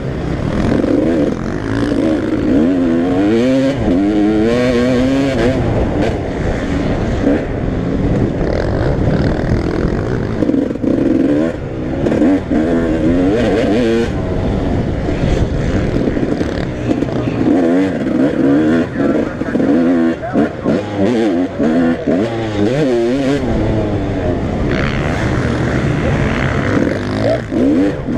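Several motocross bikes racing, their engines revving up and down over and over, with more than one bike heard at once.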